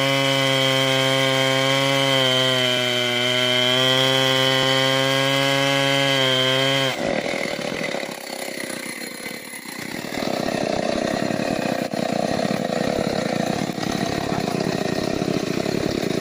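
Stihl 070 two-stroke chainsaw revved up and held at a steady high pitch for about seven seconds. It then drops off abruptly and continues as a rougher, noisier sound of the chain cutting into mahogany.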